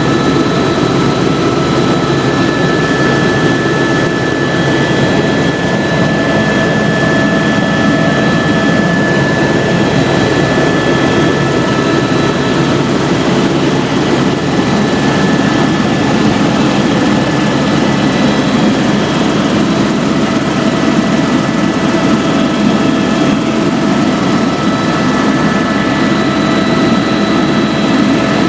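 Helicopter in flight: a steady, loud drone of turbine engine and rotors, with a constant high whine over it.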